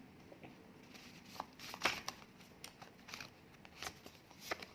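Paper word cards being handled: a few light rustles and taps, the loudest about two seconds in.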